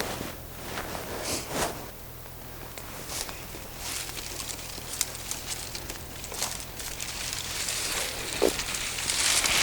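Rustling of saplings and brush and footsteps on the forest floor, with scattered small snaps and knocks and a louder swishing rustle near the end.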